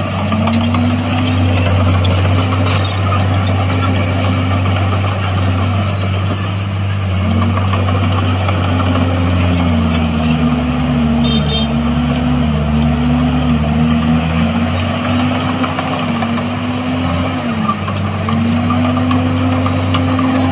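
Bulldozer's diesel engine running steadily with a low hum, and a higher whine above it that keeps dipping and rising in pitch, with a second wavering tone joining it in the middle.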